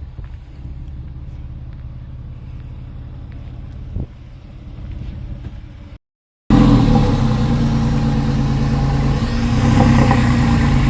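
Porsche 996 Carrera 4's water-cooled 3.6-litre flat-six running at idle, fainter at first with a single knock partway through. After a brief silent cut about six seconds in, it is heard much louder and closer, idling steadily.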